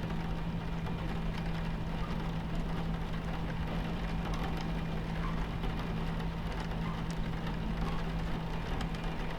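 Steady low rumble and hum of a moving train heard from inside the carriage, with rain striking the window in scattered small ticks.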